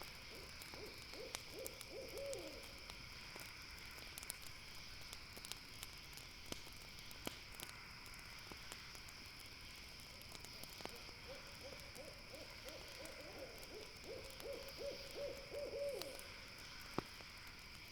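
Night forest ambience around a campfire: an owl gives a rapid trilling run of short notes near the start and again, longer, in the second half, over a steady high insect chirring and scattered crackles and pops from the fire, the sharpest pop near the end.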